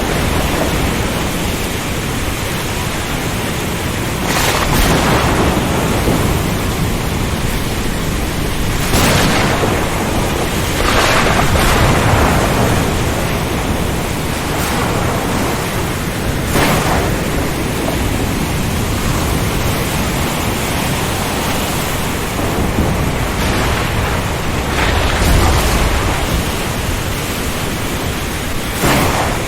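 Storm ambience: steady heavy rain and wind noise over a low, continuous thunder rumble, with louder surges that swell and fade several times.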